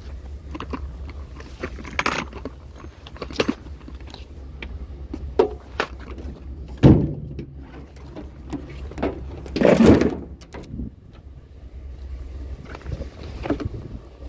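Vehicle engine running with a steady low rumble, with scattered knocks and two heavier thumps, the loudest about seven and ten seconds in.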